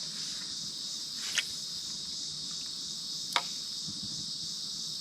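Steady chorus of late-summer insects, a continuous high-pitched trill, with two sharp clicks about a second and a half in and again two seconds later.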